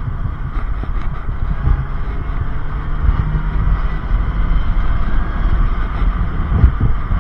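Supercharged four-cylinder engine of a Mini Cooper S R52 running after a fresh oil and filter change, a continuous uneven rumble.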